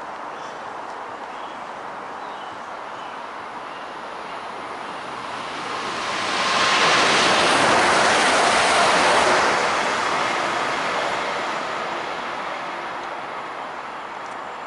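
A train passing at speed: a rush of wheel and rail noise that swells about five seconds in, holds at its loudest for around three seconds, then fades away.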